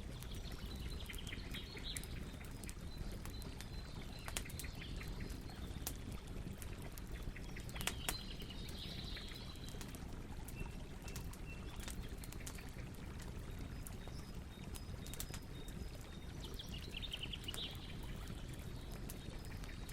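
Campfire burning, with scattered sharp crackles and pops over a steady low rumble. Birds chirp in short trills three times: about a second in, around eight seconds in, and near the end.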